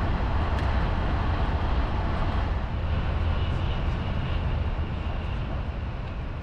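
Al Boraq RGV 2N2 high-speed train running at speed, heard inside the passenger cabin: a steady deep rumble under a rushing noise, easing off slightly near the end.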